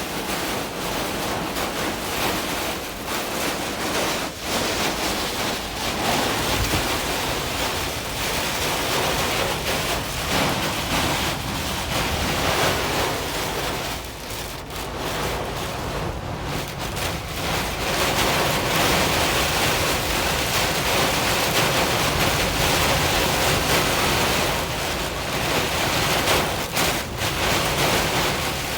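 Heavy rain pouring down: a dense, steady hiss that swells and dips briefly a few times.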